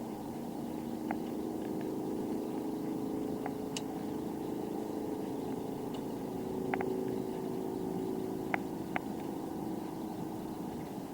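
Steady low rumble of tyre and wind noise while riding a bicycle, with a few short sharp clicks scattered through it.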